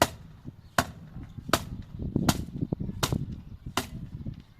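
Hammer driving nails into wooden boards: six sharp, even blows, about one every 0.8 seconds.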